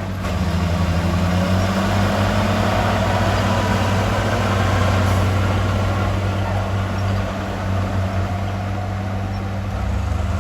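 Heavy diesel engine of construction equipment running steadily.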